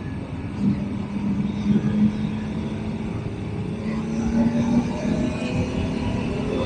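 Motorcycle engine running steadily while riding, its tone holding nearly level with a slight rise about four seconds in.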